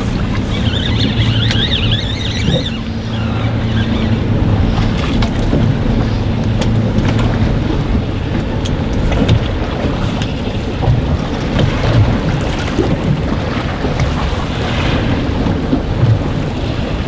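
Strong wind buffeting the microphone on a boat at anchor, over choppy water with occasional knocks of waves against the hull. A low steady hum runs under it in the first few seconds.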